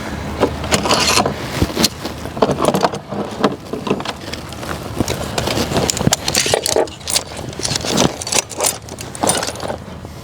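Metal hand tools and engine parts clinking and clanking at irregular intervals as an engine is put back together.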